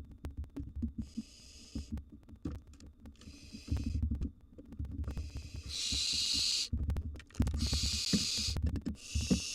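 Barn owl nestlings giving their rasping, hissing begging calls, about five of them, each under a second long, the loudest in the second half. Under the calls, low knocks and rustling come from the owlets moving about in the nest box.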